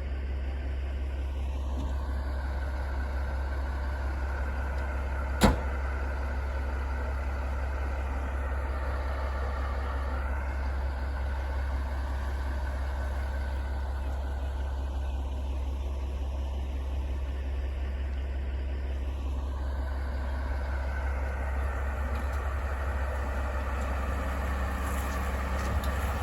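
A motor vehicle running steadily with a low drone, one sharp click about five seconds in, and the noise growing louder near the end.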